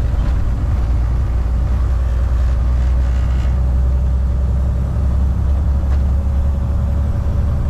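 Semi-truck's diesel engine and road rumble heard from inside the cab while driving: a steady, deep drone.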